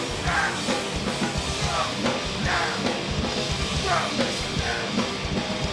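Live hardcore punk band playing between vocal lines: distorted guitars and bass over fast, pounding drums.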